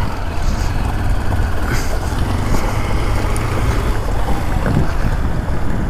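Motorcycle running as it is ridden, a steady low rumble mixed with wind buffeting the microphone.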